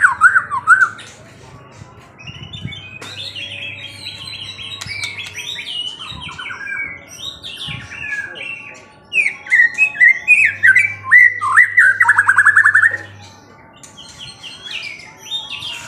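A songbird singing in varied chirps and warbled phrases, with a loud, fast trill of repeated falling notes around ten seconds in.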